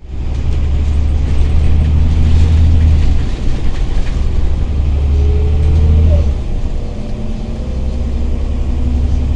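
Scania OmniCity city bus's engine under way, heard from inside the bus: a loud, deep drone that drops back twice, about three and six seconds in, as at gear changes, with a faint rising whine just before the second drop.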